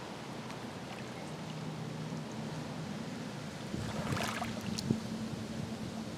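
Small waves lapping and splashing against a rocky shore, with a louder splash about four seconds in, over a low steady hum.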